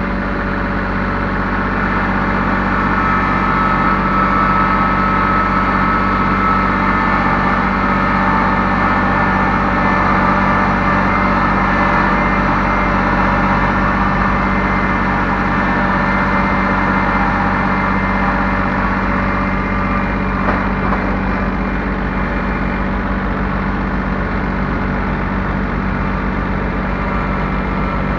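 Heavy-equipment engine running steadily, a little louder for a stretch early on and then settling.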